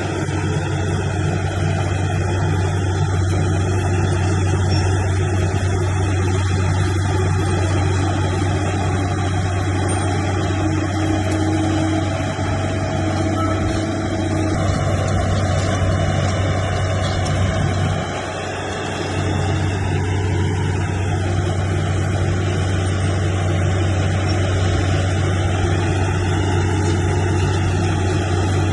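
Bulldozer's diesel engine running steadily under load, with a strong low hum. It eases off briefly about 18 seconds in, then picks up again.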